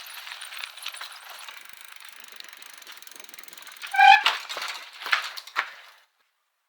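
Road bike's freewheel ticking steadily as it coasts, with a few short, loud, high cries about four to five seconds in; the sound cuts off suddenly about six seconds in.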